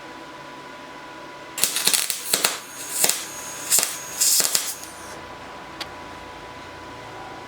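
MIG welder arc crackling in several short, irregular bursts over about three and a half seconds as beads are laid, over a steady faint hum.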